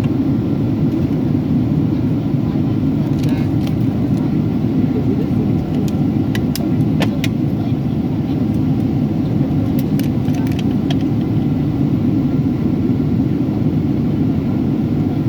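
Steady low rumble of airliner cabin noise inside a Boeing 757-300 in flight, from airflow and engines. A few light clicks come in around the middle.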